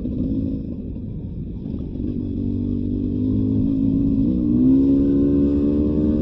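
Beta 300 RR two-stroke dirt bike engine running on the trail. It eases off at the start, picks up again about two seconds in, and rises in pitch as it revs up about four and a half seconds in.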